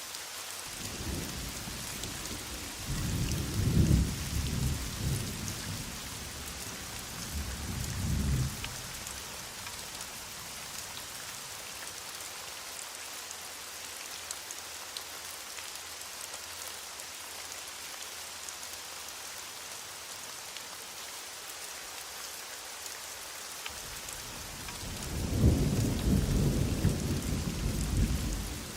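Heavy rain falling steadily, with thunder rumbling twice: a rolling rumble in the first several seconds and a louder one starting about 24 seconds in.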